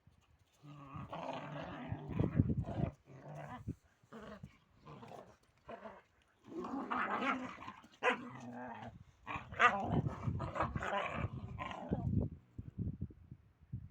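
Kangal dogs growling in two long spells, with a few short sharp barks or snaps in the second.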